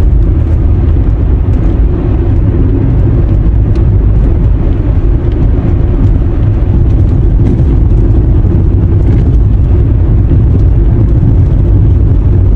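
Steady, loud low rumble of a moving vehicle: road and wind noise of the ride.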